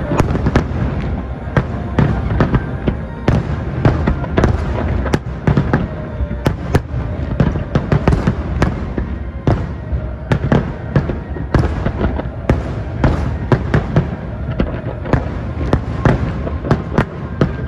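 Aerial fireworks bursting in a dense barrage: many sharp bangs in quick succession, several a second, over a continuous low rumble.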